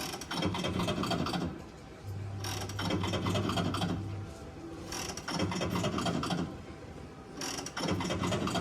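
A digital slot-machine terminal's reel-spin sound effect: a rapid ticking rattle, repeated for four spins in a row, each about two seconds long with short pauses between.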